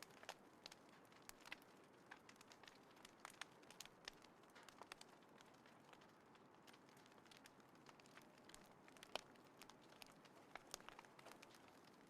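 Wood fire crackling in a small folding fire pit: scattered, irregular sharp pops and snaps over a faint hiss, with one louder pop about nine seconds in.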